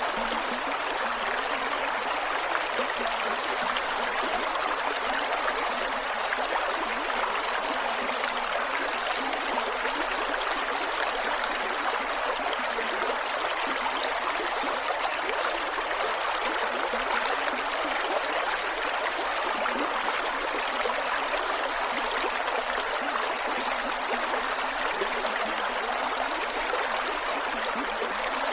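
A small creek running over rocks, with a steady rush of water and fine gurgling and trickling.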